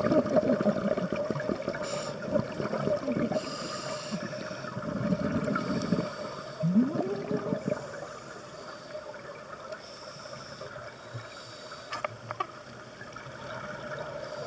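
Scuba diver breathing through a regulator underwater: bubbling exhalations that come and go, with a hiss of inhaled air between them.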